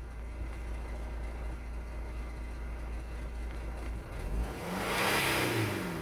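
Chrysler Grand Voyager 2.5 CRD four-cylinder common-rail turbodiesel idling steadily, then revved once near the end, the pitch rising and falling back toward idle.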